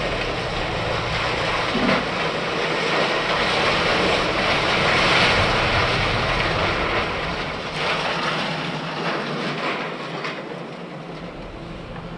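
Heavy vehicle or machinery running, a broad rumbling rush that swells to its loudest about halfway through and then fades.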